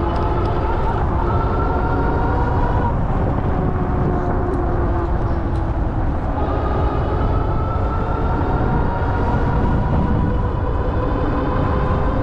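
Ariel Rider Grizzly e-bike riding along, its hub motor whining with a pitch that rises slowly twice as the bike gathers speed, over a steady low rumble of wind and tyres.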